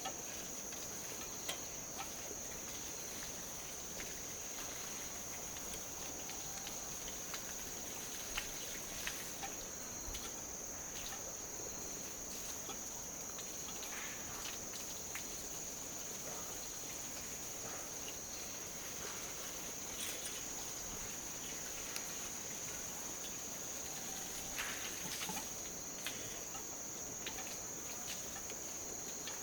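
A steady, high-pitched insect chorus buzzing without a break, with scattered faint clicks and taps.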